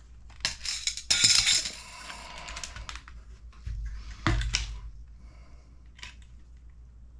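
Small hardware and tools being handled on a workbench: scattered clicks, a loud rattling clatter about a second in, and a sharp knock about four seconds in.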